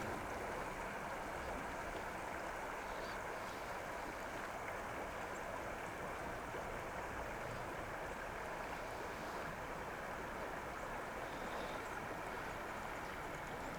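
Steady rush of a mountain trout stream's flowing water, an even sound with no change.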